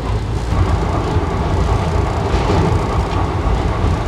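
Moving passenger train heard from inside the coach: a loud, steady low rumble of the wheels on the track, with a few faint clicks.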